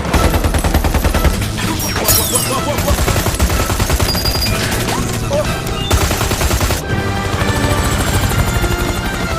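Helicopter rotor blades chopping in a rapid, steady beat, with background music over it.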